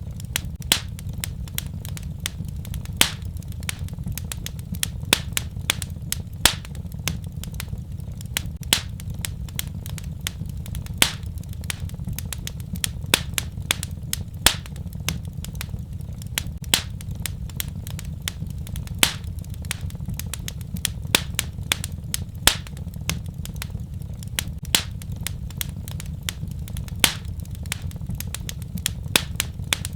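Wood fire crackling in a fireplace: a steady low rumble of flames with many sharp pops and snaps at irregular intervals, a few each second.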